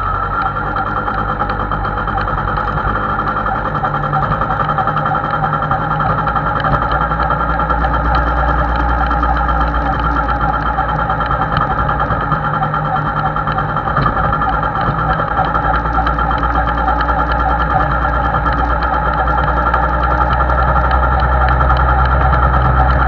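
Two-stroke MZ motorcycle engine running steadily while riding along at low road speed, heard from on the bike, with wind rumble on the microphone.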